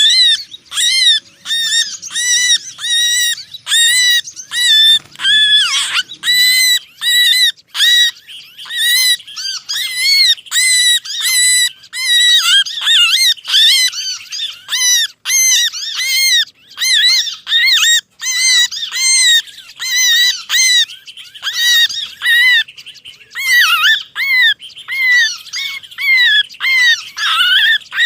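Bird-lure recording of small songbirds' agitated alarm and distress calls: harsh, arching chirps two to three a second without a pause, the noisy, trapped-bird calling used to draw small birds such as prinias, bulbuls and sunbirds in close.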